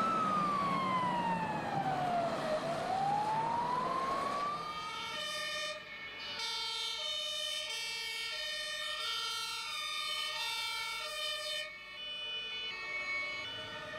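Fire truck sirens. A wailing siren rises and falls in pitch, then about five to six seconds in the sound changes to a two-tone siren alternating between two pitches.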